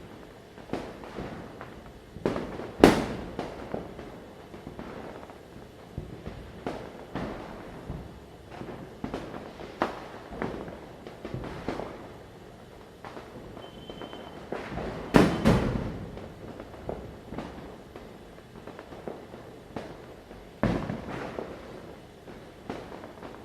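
Firecrackers bursting near and far, sharp bangs at irregular intervals over a continuous background crackle, with the loudest blasts about three seconds in and around the middle. A brief thin whistle-like tone sounds just before the middle blasts.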